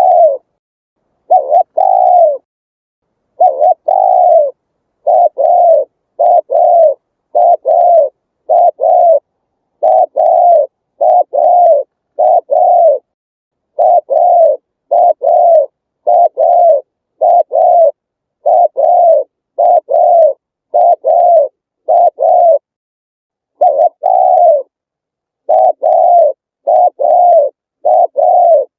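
Spotted dove cooing: phrases of two to four low hooting notes, each note arching slightly up and down in pitch, repeated over and over with short silent gaps between phrases.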